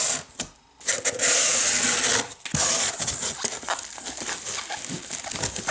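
Cardboard parcel being opened by hand: a long scraping rip of tape and cardboard about a second in, then softer rustling and small clicks of the packaging being handled.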